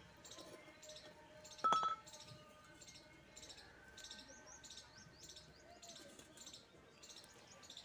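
Small birds chirping over and over, short high chirps about twice a second, with a single sharp metallic clink that rings briefly about two seconds in.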